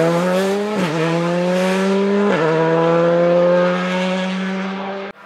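Rally car's engine at full throttle, accelerating through the gears: the pitch climbs and then drops at two quick upshifts, about one and two and a half seconds in, then holds at high revs. It fades and cuts off suddenly near the end.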